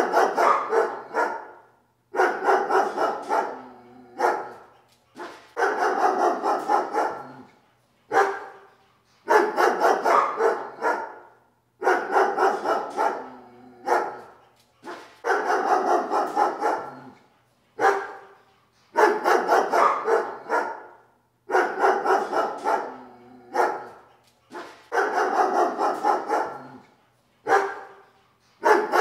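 A dog barking in repeated bouts of quick barks, one bout about every three seconds.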